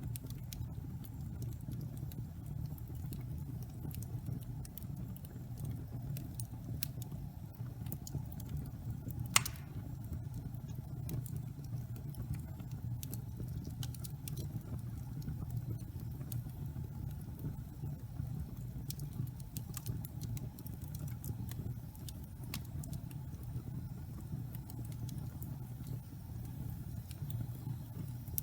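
Wood logs burning in a fireplace: a steady low rumble of the fire with scattered small crackles, and one loud pop a little over nine seconds in.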